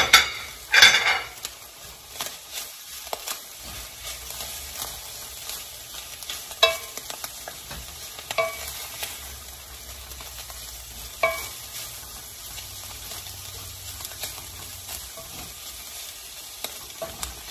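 Chicken with grated onion, garlic and ginger frying in an amber glass pot, a steady sizzle, while a wooden spatula stirs and scrapes through it. A few sharp knocks and clicks cut in, the two loudest within the first second.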